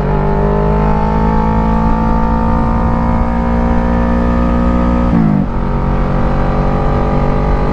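Kawasaki Ninja 650's parallel-twin engine running under way, its note rising slightly. The pitch drops suddenly about five seconds in as it shifts up a gear, then holds steady.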